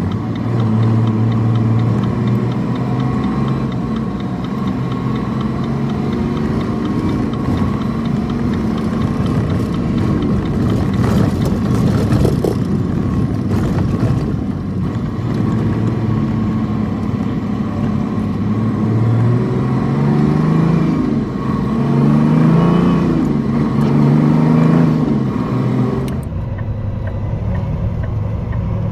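Semi truck's diesel engine running while driving, rising in pitch as it accelerates around two-thirds of the way in.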